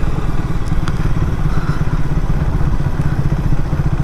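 Triumph Speed 400's single-cylinder engine running at low revs in fourth gear at low road speed, a steady, even low pulsing.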